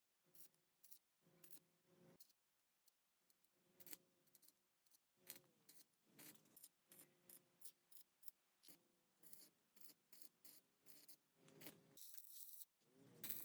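Faint, irregular small clicks and ticks, several a second, over a faint steady hum.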